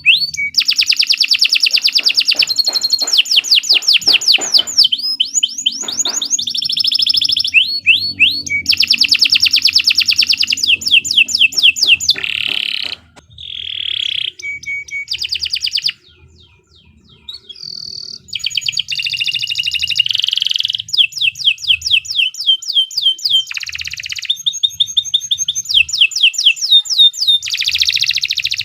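Domestic canary singing long, fast trills of rapidly repeated high notes, one rolling phrase after another. About halfway through there is a lull of a few seconds with only short, quieter notes before the trilling picks up again.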